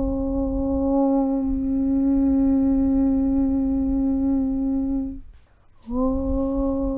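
A voice chanting 'Aum' on one steady low pitch, the tone growing more closed and humming about a second and a half in, then fading out about five seconds in. After a short break under a second long, the next 'Aum' begins on the same pitch.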